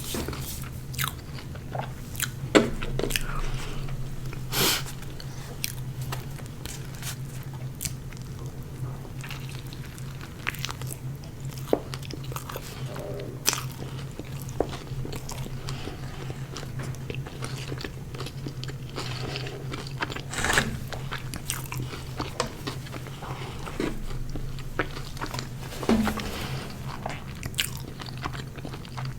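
Close-miked eating of Burger King fast food: biting and chewing with scattered crisp crunches and a few louder bites, over a steady low hum.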